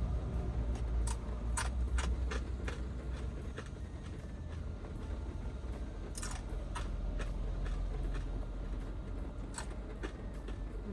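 Heavy rain and wind on the HiAce van's body heard from inside the cabin: a steady low rumble with irregular sharp taps and ticks scattered through it.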